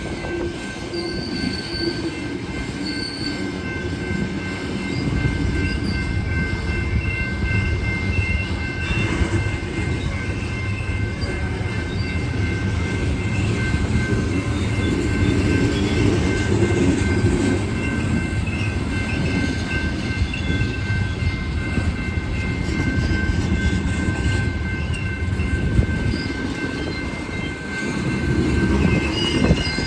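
Freight cars of a coal train rolling past with a steady rumble of wheels on rail, which grows louder about five seconds in. Over the rumble runs a continuous high-pitched squeal of wheel flanges against the rail.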